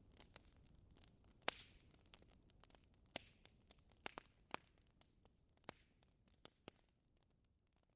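Faint fireplace crackle: a wood fire snapping and popping irregularly over a soft hiss, with one sharper pop about a second and a half in, fading out toward the end.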